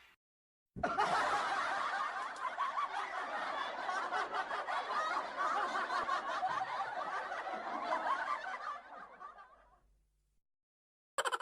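Laugh-track sound effect: a crowd laughing together. It starts abruptly about a second in and fades out near the end.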